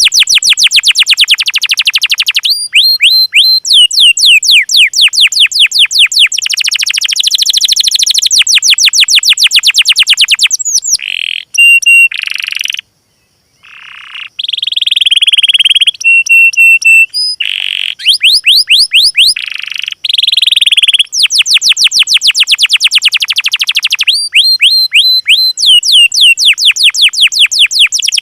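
Small songbirds singing loud, fast trills of rapidly repeated down-slurred notes, mixed with short, steady high whistles. There is a brief break about halfway through.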